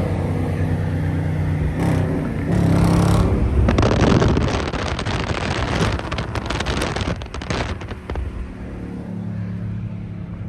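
Car engine running, swelling into a loud rush of noise with sharp pops from about four to eight seconds in, then settling back to a steady drone.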